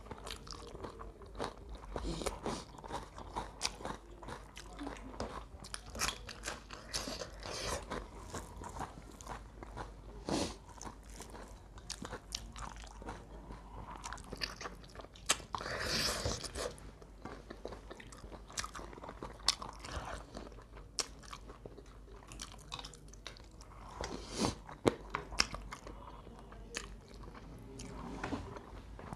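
Close-miked chewing and crunching as crispy fried chicken is bitten and eaten by hand: a steady scatter of small crunches and wet mouth clicks, with a few louder bites spread through.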